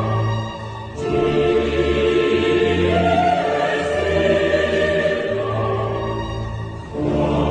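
Choral music: a choir singing sustained, opera-like chords over orchestral accompaniment, with short breaks between phrases about a second in and near the end.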